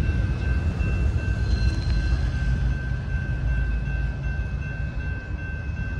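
Norfolk Southern freight train with diesel locomotives approaching, a steady low rumble with thin high-pitched tones held steadily over it.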